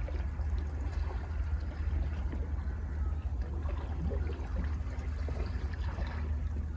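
Sea waves washing in steadily, with trickling, gurgling water and a constant low rumble underneath.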